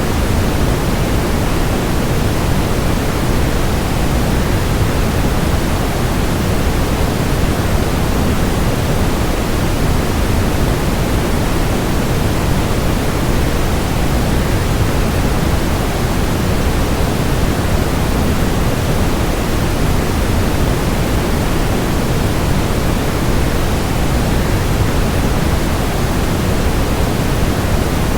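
Steady, unbroken rushing noise of a waterfall blended with white noise, fuller in the low end, with no change or separate events.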